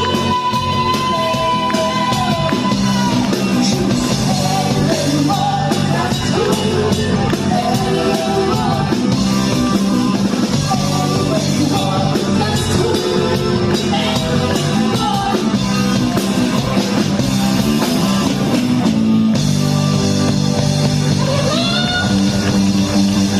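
Rock band playing, with singing over drums and electric guitar.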